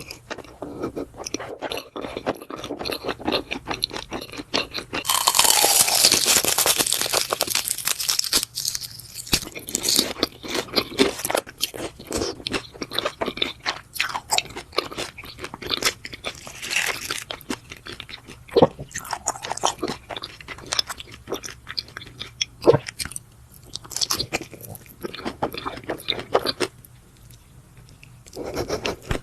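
Close-miked mukbang eating of grilled beef intestine and noodles: a constant run of wet chewing, biting and crunching mouth sounds. About five seconds in there is a louder, sustained stretch lasting some three seconds, and the chewing quietens briefly near the end.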